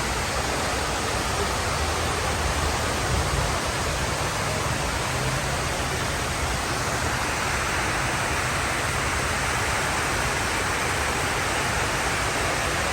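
Steady rush of water falling down the walls of the 9/11 Memorial's waterfall pools.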